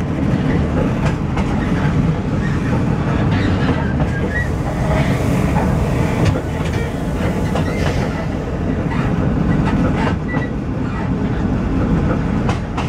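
Diesel train running steadily along the track, heard from inside the cab: a continuous rumble of wheels on rail with scattered clicks as the wheels pass over rail joints.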